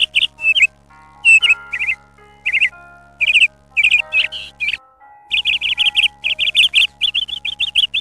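A small bird chirping in quick runs of sharp, high chirps over soft sustained background music. Everything cuts out briefly about halfway through.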